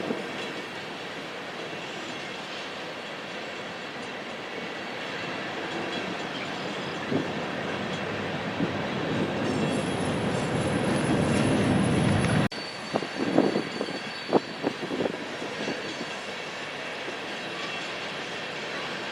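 A train rolling past on the rails, its rumble building steadily with a thin high wheel squeal, then cutting off abruptly about twelve seconds in. Right after the cut comes another stretch of passing train with irregular wheel clicks and knocks over the rail joints, under a steady high squeal.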